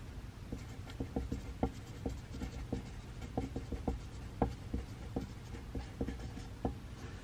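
Pencil writing on paper, with frequent short, irregular taps as the pencil strikes the page, over a steady low room hum.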